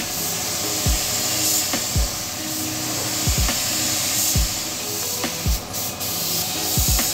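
Spray gun running, its compressed air making a steady high hiss, released briefly near the end, over background music with a thumping bass beat.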